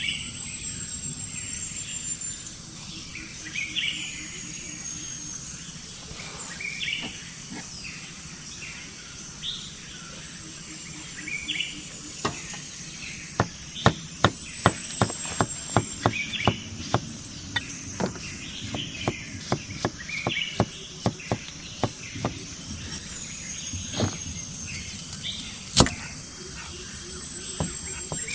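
Forest birdsong: scattered short chirps and thin, high, falling whistles. About halfway through, a run of sharp knocks starts close by, up to about three a second, and goes on to the end.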